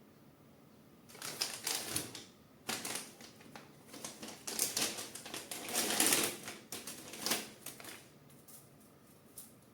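Rapid clicking and rattling of hard parts being handled during 3D printer assembly, in two dense flurries about a second and three seconds in that die away near the end.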